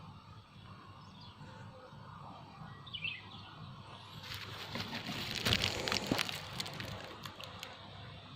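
Rural outdoor ambience with a few short, high bird chirps. In the middle there is a louder stretch of rustling with sharp clicks and cracks.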